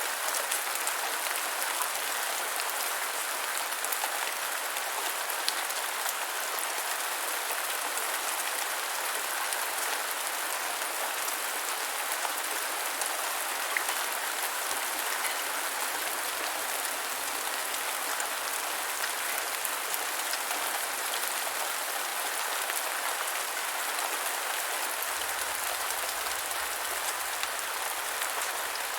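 Steady rain falling and pattering on the ground, an even hiss with fine scattered drop ticks.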